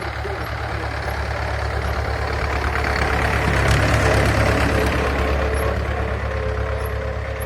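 Tractor engine running steadily with a low rumble, growing louder to a peak about halfway through and then easing off.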